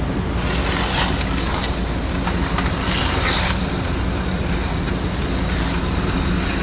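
HO-scale electric slot cars, an Auto World Hummer H2 and a Chevy Bel Air, running on plastic track. Their small motors give a steady low hum, and a higher whirring swells and fades every couple of seconds as the cars pass.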